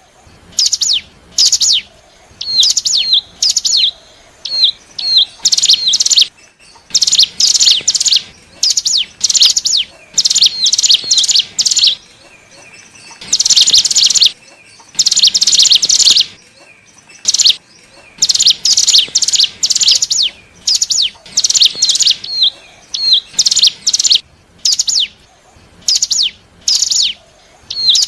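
Ciblek gunung (cigun) singing: repeated bursts of high, quick chirping notes in phrases of half a second to two seconds with short gaps between them. This is lure song of the kind used to draw in wild cigun.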